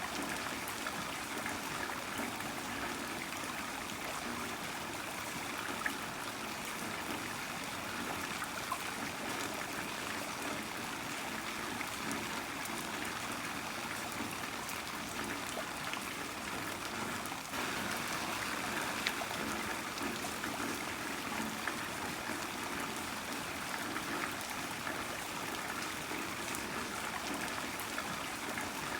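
Heavy rain falling steadily, with a running, trickling wash of water and a few separate drops ticking now and then.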